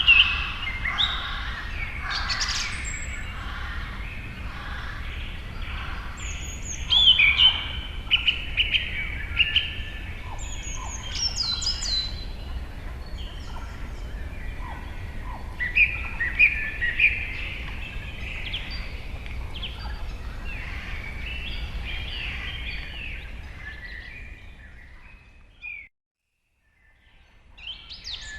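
A chorus of many birds chirping and trilling over a steady low rumble, fading out near the end to a moment of silence.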